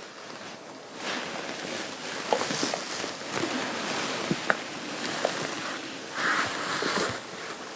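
Fabric rustling and rubbing as a garment is handled close up, with scattered small ticks, growing louder for a moment near the end.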